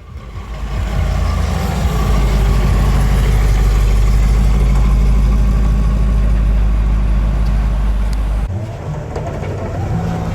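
A car's engine and exhaust with a deep, loud rumble, building as it draws near and holding strong for several seconds, then falling off sharply about eight and a half seconds in as it passes or eases off.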